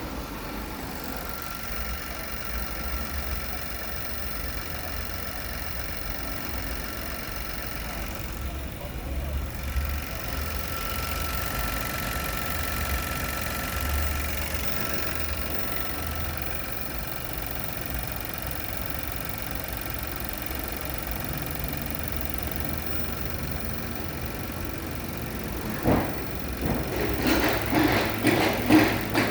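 Volkswagen engine idling steadily with a faint steady whine over its low running note. A sharp knock comes about three-quarters of the way through, followed near the end by a run of louder clattering knocks.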